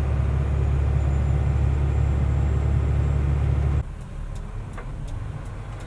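Mercedes-Benz Unimog U500's turbo diesel engine running with a heavy low drone, heard from the cab above it; about four seconds in it drops suddenly to a much quieter, lower drone, with a few light clicks after.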